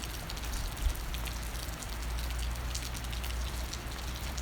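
Steady rain, with many sharp drop ticks close by over a low steady rumble; one louder thump just under a second in.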